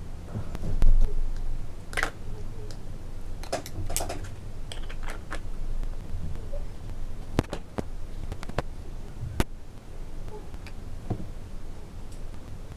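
Small plastic toy kitchen pieces clicking and tapping as they are handled, in irregular single clicks, with a low bump about a second in.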